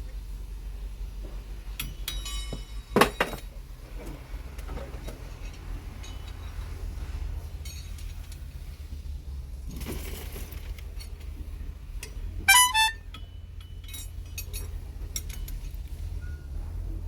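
Metal tools and truck parts clinking and clanking during wrench work. There are two sharp metallic clanks, about 3 seconds in and again at about 12 and a half seconds, the second ringing briefly, with lighter clicks between them over a steady low rumble.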